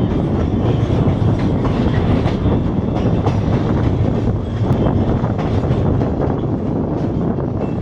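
Passenger train running on the rails, heard from on board: a steady rumble and rattle of the cars with faint irregular clicks of the wheels on the track.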